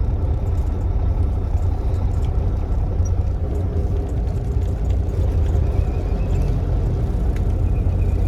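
Semi-truck's diesel engine running steadily, a loud, even low drone heard from inside the cab.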